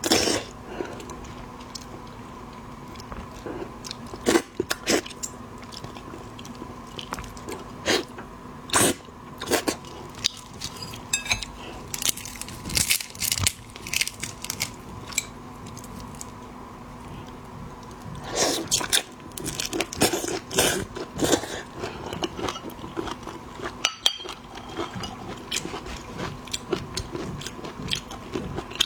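Close-miked eating of a red prawn: crunching and chewing with sharp cracks of shell, coming in clusters, over a faint steady hum.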